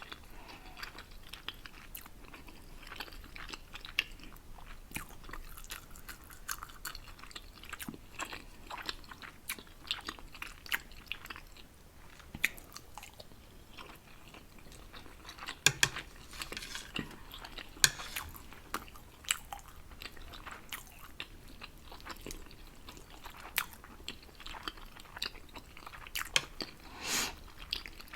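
A person eating instant noodles close to the microphone: steady chewing with many small wet mouth clicks and smacks, a few of them louder.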